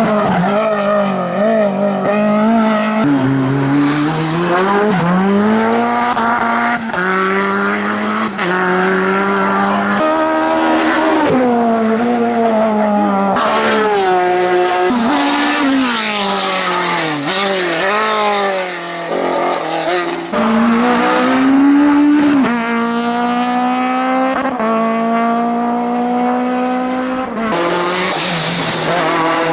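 Hillclimb race car engines at full throttle, each climbing in pitch and dropping back on every upshift, changing abruptly every few seconds from one car to the next.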